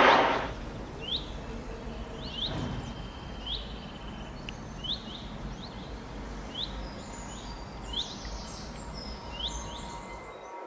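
Small birds chirping: a short, sharp chirp repeats about once a second, joined by higher twittering in the second half, over a low steady rumble. At the very start a loud roar dies away within half a second.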